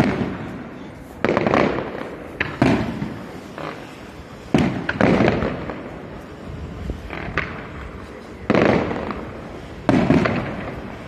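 Aerial firework shells bursting overhead: about seven loud booms at irregular intervals of one to three seconds, each trailing off in a fading rumble, with a few smaller pops in between.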